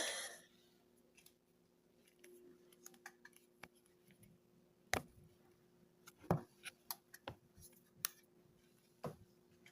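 Faint scattered clicks and taps, with a short rustle at the very start, over a steady low hum.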